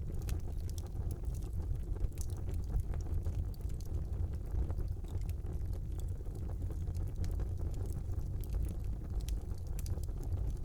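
Wood fire burning in a brick fireplace: a steady low rumble of the flames with scattered sharp crackles and pops throughout.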